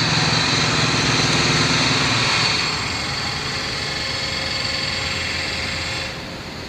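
An engine running steadily with a mechanical hum that drops off about two and a half seconds in, leaving a quieter rumble that falls again near the end.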